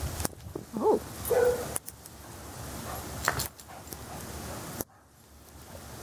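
Dog playing in snow, giving a short whine-like yelp about a second in, with jingling like collar tags. The sound drops away abruptly twice.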